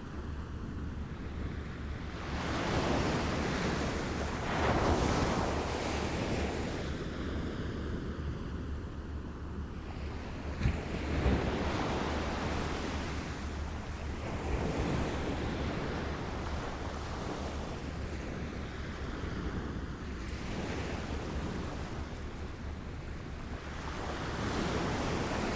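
Small waves lapping on a shore, washing in and falling back every few seconds in uneven swells, with a sharper splash about eleven seconds in. A steady low rumble lies underneath.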